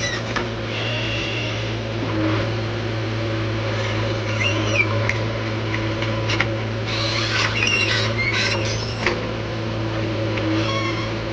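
JCB 3DX backhoe loader's diesel engine running steadily under work, with several short bursts of higher-pitched sound over it.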